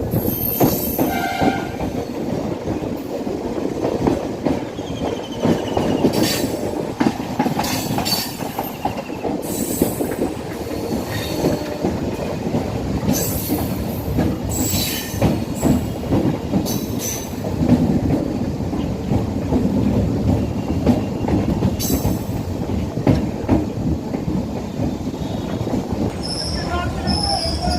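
Indian Railways train running on the track: a steady heavy rumble of wheels on rails, with short high-pitched wheel squeals and clanks now and then.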